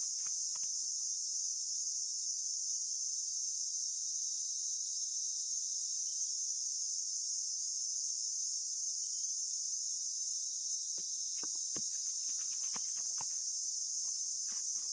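Steady, high-pitched chorus of insects, with scattered light knocks and footsteps at the start and again from about eleven seconds in.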